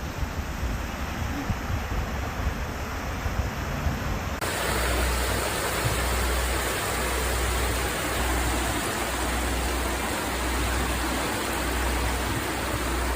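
Water rushing steadily, as in a swollen, flooding river. About four seconds in, a cut to a louder stretch of rushing noise with a low pulsing rumble.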